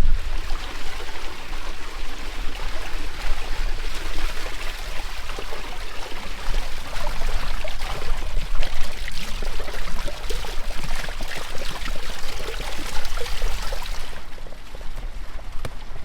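Water running or pouring steadily with a splashing, crackly texture, cutting off abruptly about fourteen seconds in.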